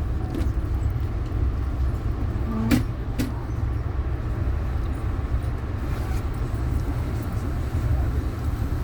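Steady low rumble of a moving passenger train heard from inside the coach, with a sharp click a little under three seconds in.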